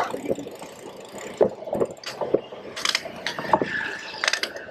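Irregular mechanical clicking and clattering, sharp ticks coming every few tenths of a second over a steady street background.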